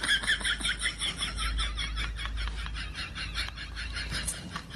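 A rooster squawking in distress as a dog attacks it: rapid repeated cries, about seven a second, sharpest in the first second.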